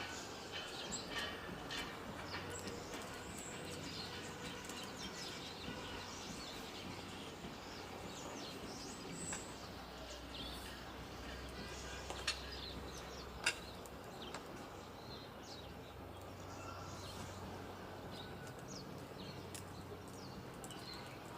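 Small birds chirping and calling on and off over a steady low outdoor rumble, with two sharp clicks about halfway through.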